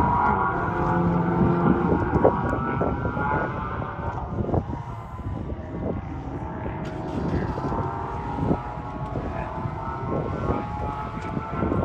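Sports car engine at high revs on a race track, passing close and loud in the first couple of seconds, then fading to a more distant drone as it pulls away.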